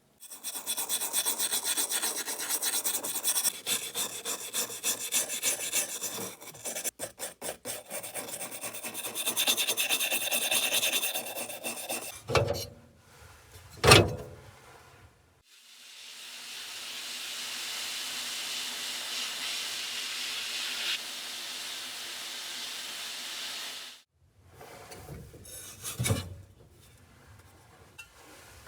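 Rapid back-and-forth rubbing strokes as a chainsaw part is scrubbed clean, breaking into slower separate strokes for a moment, then two sharp knocks. After that comes a steady hiss lasting about eight seconds, and a few more scrapes near the end.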